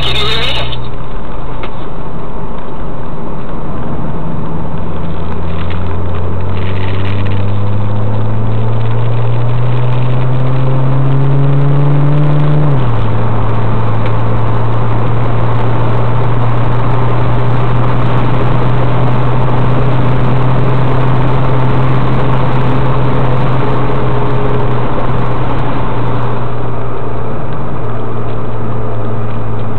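The twin-turbo flat-six of a Porsche 996 Turbo-based Gemballa GT600 Evo, heard from inside the cabin on track. The engine note rises steadily for about nine seconds as the car pulls through a gear. It drops sharply on an upshift about thirteen seconds in, then holds a steady pitch.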